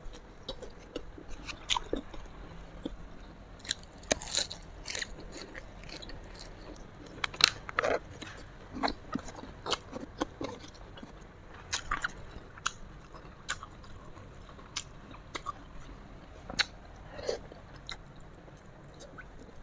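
Close-miked mouth sounds of eating: chewing and biting with irregular sharp crunches and wet clicks.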